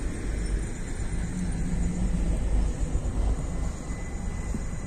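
Stadler Flirt diesel multiple unit passing close by: a steady low rumble of wheels and running gear on the rails.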